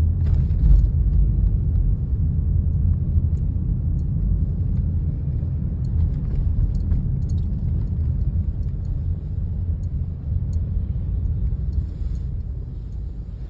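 Wind buffeting the microphone in a snowstorm: a loud, gusting low rumble that eases off near the end.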